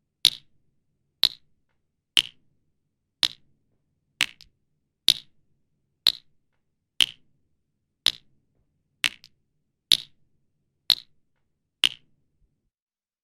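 A sharp, bright click about once a second in an even, slow beat, each with a faint short echo after it, stopping a little before the end.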